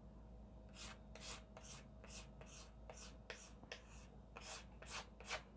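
Faint scraping or rubbing strokes on a wall surface, about two to three a second, a dozen or so in a row, like hand work spreading or smoothing filler over a crack.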